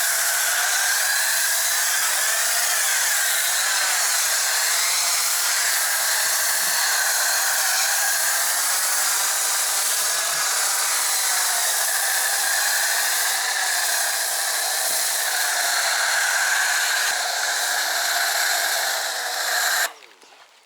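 Cordless pressure washer spraying in a steady, loud hiss that wavers slightly as the spray moves, then cuts off abruptly near the end.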